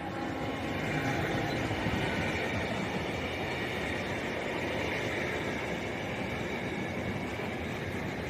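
GBRf Class 66 diesel locomotive hauling a container freight train past at line speed. The rumble of wheels on rails builds over the first second and then holds steady.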